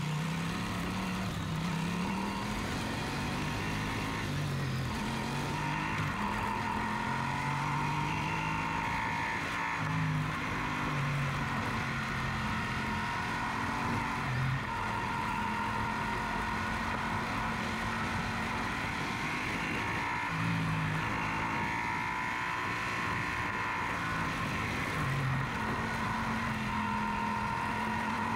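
Yamaha Super Ténéré parallel-twin motorcycle engine running while being ridden, its pitch rising and falling a little as the speed changes.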